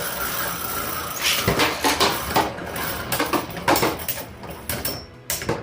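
3D-printed Beyblade spinning tops clashing, a string of irregular sharp plastic clacks from about a second in, over a steady whirring hiss.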